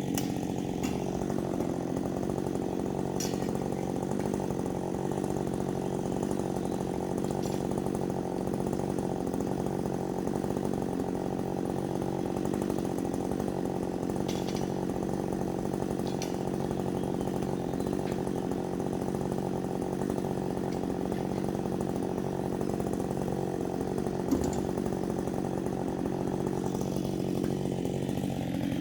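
An engine running steadily at one even speed, with no revving or load changes. A few faint clicks sound over it.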